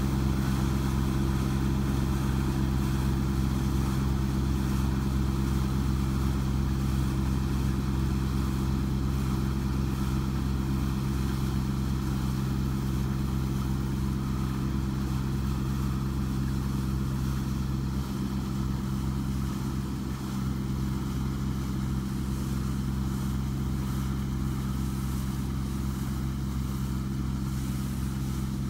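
Rice combine harvester's engine running steadily, an even mechanical drone that fades slightly over the second half.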